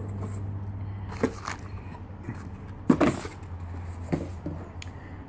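A few light knocks and clinks of engine parts being handled, the loudest about three seconds in, over a steady low hum.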